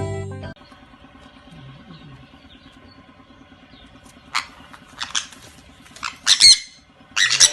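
Music cuts off, then an animal gives a few short, sharp, high-pitched squawking calls, coming louder and closer together near the end.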